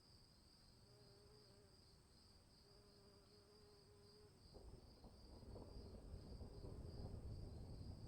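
Crickets chirping in a steady, fast-pulsing high trill, faint. About halfway through, a low noise rises beneath it and grows louder.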